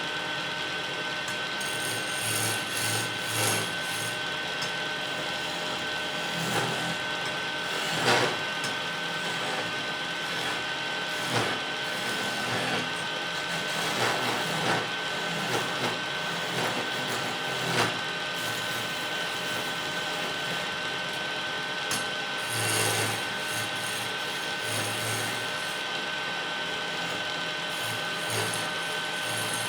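Wood lathe running with a steady whine while a turning tool cuts and scrapes the spinning wood, giving irregular scratchy rasping and a few sharp knocks.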